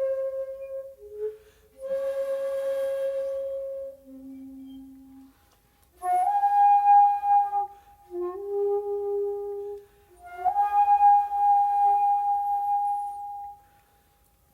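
Solo shakuhachi, the Japanese end-blown bamboo flute, playing a slow phrase of long held notes, some sliding up into pitch, with a breathy rush of air at the attacks and short pauses between notes. A soft, low note comes about four seconds in, and a long high note holds from about ten seconds in before the phrase dies away near the end.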